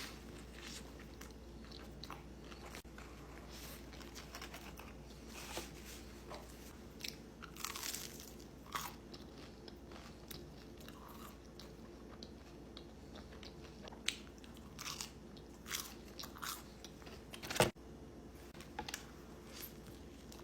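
Close-miked mukbang eating: irregular crisp crunching bites and chewing of crunchy food, with the loudest, sharpest crunch about three-quarters of the way through.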